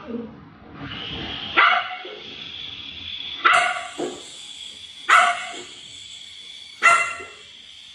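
A dog barking, five sharp barks spaced about one to two seconds apart, over a steady background hiss.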